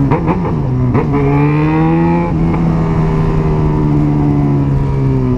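Yamaha XJ6's inline-four engine breathing through an aftermarket Jeskap exhaust while riding. The pitch dips and jumps a few times in the first second, then the engine pulls steadily, its note easing slowly down.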